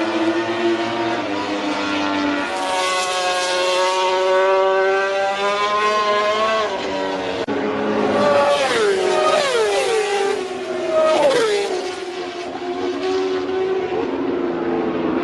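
MotoGP racing motorcycles running at high revs past the track edge, their engines overlapping in a steady high note. Between about eight and twelve seconds in, several bikes go by in quick succession, each engine's pitch dropping sharply as it passes.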